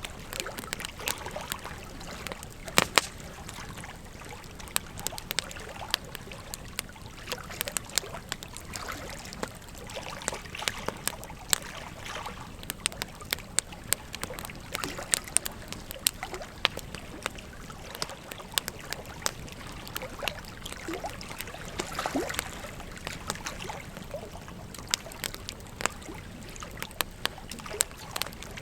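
Wood fire crackling with frequent sharp pops and snaps, over the steady rush of a flowing river.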